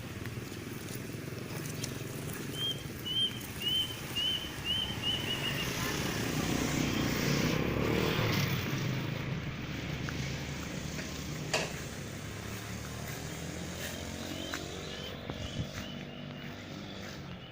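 A motor vehicle passing by, its rumble growing to a peak about halfway through and then fading away. A small bird gives a quick run of about six short repeated chirps twice, once early on and again near the end.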